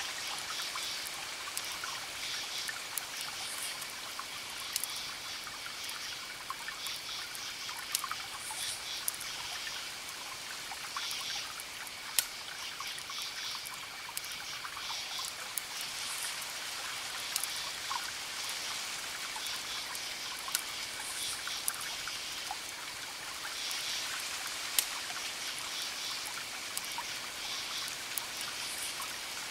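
Wood fire crackling over a steady hiss, with sharp single pops every few seconds. A high, repeated chirping runs in the background.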